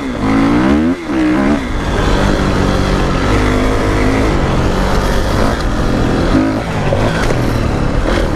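Kawasaki KX450 dirt bike's single-cylinder four-stroke engine being ridden: revving up and down twice in the first couple of seconds, then running fairly steadily under throttle.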